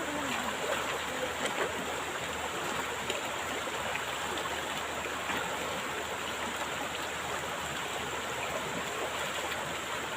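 Stream water rushing, a steady even wash of noise.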